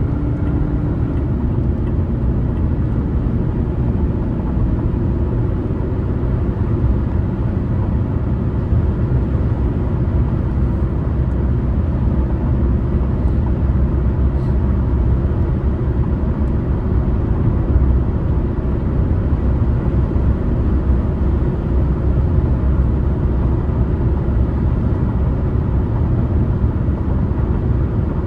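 A car driving on the highway: steady low rumble of tyre and engine noise.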